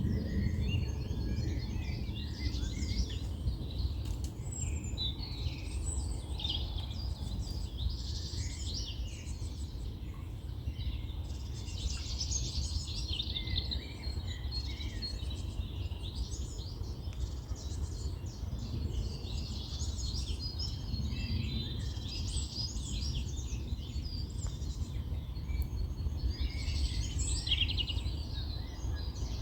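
Several songbirds singing and chirping at once, a busy overlapping chorus of high calls, over a steady low rumble.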